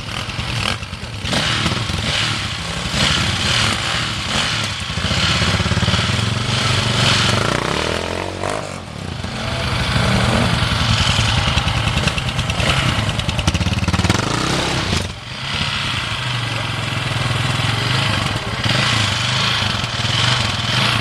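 Off-road motorcycle engines running and revving, the pitch rising and falling repeatedly, with the revs dropping off briefly twice.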